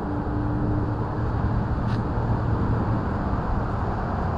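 Steady low rumble of outdoor background noise with a low hum for a few seconds, and a faint click about two seconds in.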